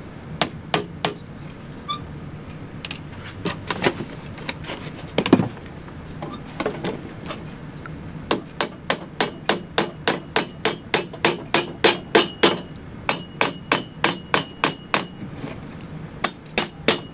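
Hammer tapping on a workpiece: a few scattered blows at first, then from about eight seconds in a steady, even run of strikes, about three a second.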